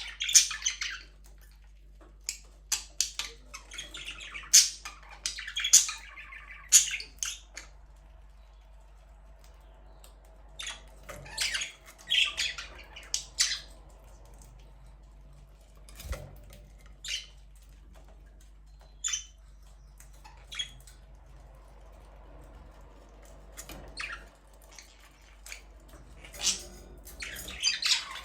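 Budgerigars chirping and squawking, short sharp calls coming in bursts with quieter gaps between.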